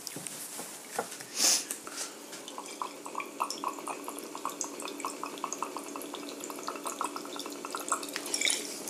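Water running and dripping in a small room, with a quick irregular run of small drips over several seconds and a short hiss about one and a half seconds in.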